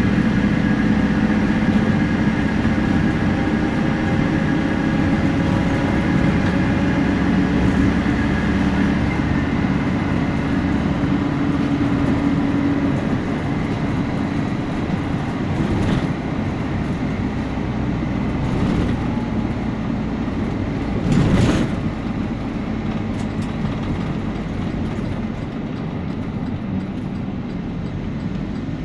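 Temsa Prestij SX midibus under way: its diesel engine and turbo running, with a whine from the differential, the tones sliding slowly in pitch. The deep engine drone drops away about halfway through, and a short rush of noise comes about two-thirds in.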